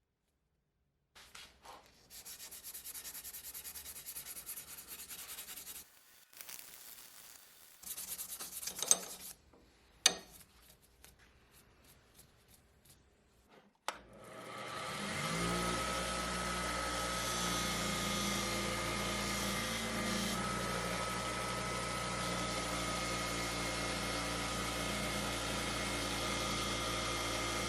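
An axe edge being sharpened: for the first few seconds a steady scraping, rubbing sound of metal worked by a file or abrasive, with a couple of sharp knocks. About halfway through, a power sharpening tool starts up and runs at a steady pitch until near the end.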